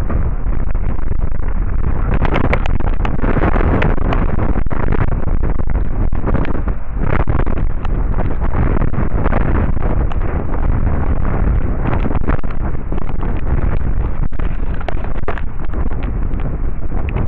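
Strong wind buffeting the microphone in loud, rumbling gusts.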